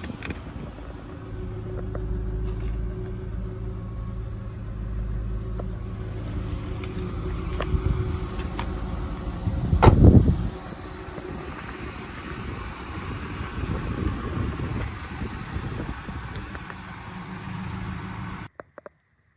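Wind buffeting the microphone over a car's V8 engine idling steadily, with one loud gust about ten seconds in. The sound cuts off abruptly near the end.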